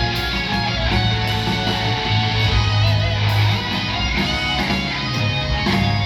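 Live rock band music without vocals: strummed guitars over bass, playing steadily.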